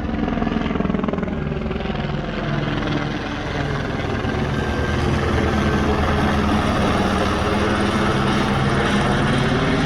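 Helicopter flying close by, its rotor chop and engine loud and steady.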